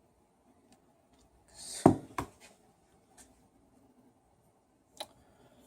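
Small hand tools and parts being handled at a workbench: a brief hiss, then a sharp click about two seconds in, a second click just after it, and another click near the end.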